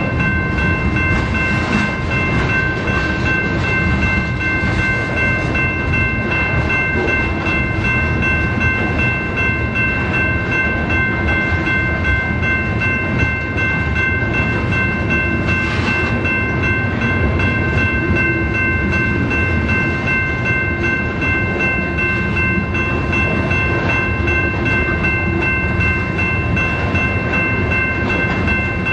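BNSF freight train's cars rolling past with a steady rumble and a constant high-pitched whine over it.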